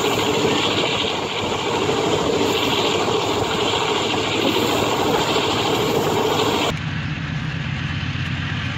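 Diesel-electric locomotive engine running at high throttle, a loud steady drone. About two-thirds of the way in it cuts abruptly to a lower, deeper engine drone.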